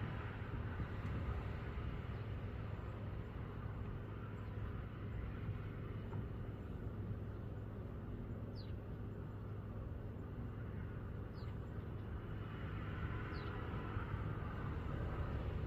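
Steady low background rumble with three short, thin, high chirps of a small bird, each falling in pitch, in the second half.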